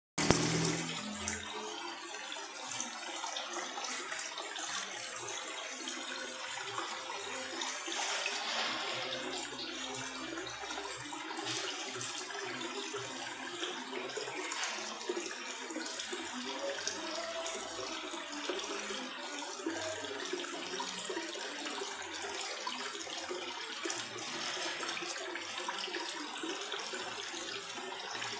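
Water in an aquarium running and trickling steadily.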